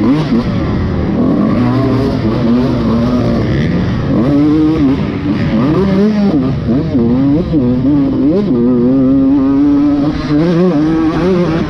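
Motocross dirt bike engine revving hard and repeatedly, its pitch climbing and dropping every second or so as the throttle is worked through the track.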